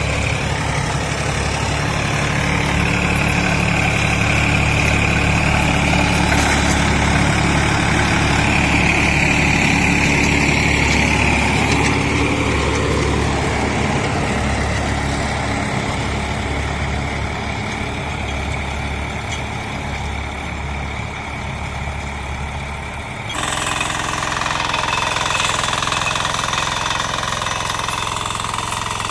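Tractor engine running steadily, with an abrupt change in its sound about 23 seconds in.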